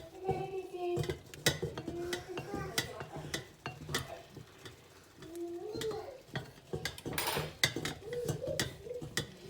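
Utensils and dishes clinking and tapping in a run of short, irregular knocks, with a faint voice now and then.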